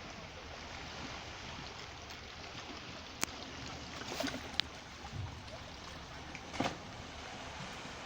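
Steady rush of sea water, with a sharp click about three seconds in, another a little later, and two brief louder swishes.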